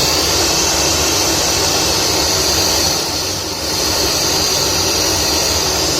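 Loud, steady FM radio static hissing from a tower speaker switched to FM mode, dipping briefly about halfway through and cutting off abruptly just after. The speaker, with its TDA2050 amplifier board and a newly fitted 1 A transformer, is putting out sound again.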